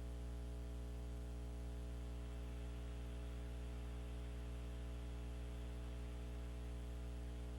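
Steady electrical mains hum, a low buzz with many even overtones and a faint hiss, unchanging throughout.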